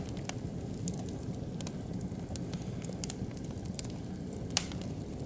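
Oak and beech wood fire burning, with scattered sharp crackles and pops over a low steady rush; the loudest pop comes about four and a half seconds in.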